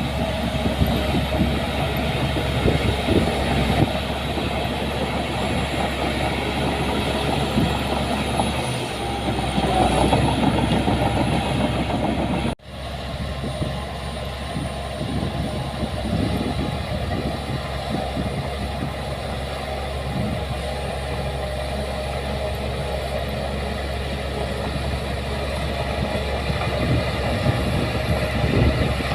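Diesel engine of heavy earthmoving machinery running steadily at work. The sound breaks off for an instant a little under halfway through, then carries on slightly quieter.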